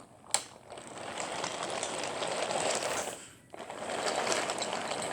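Wooden toy train rolling along wooden track, a steady mechanical clatter that briefly drops out about three and a half seconds in.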